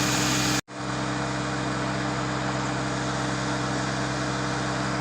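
Diesel engine of a Mahindra tractor idling steadily, with the sound cutting out for a moment about half a second in.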